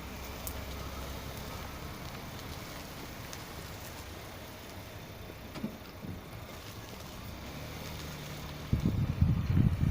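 Škoda Octavia A7 rolling slowly with a steady low rumble and no clear brake squeal. From about nine seconds in, loud irregular low buffeting, like wind on the microphone, covers it.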